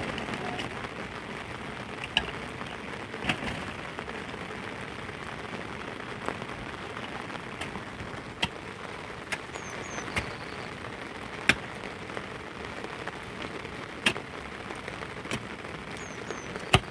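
Steady rain falling, with sharp taps at irregular intervals, a few of them louder than the rest.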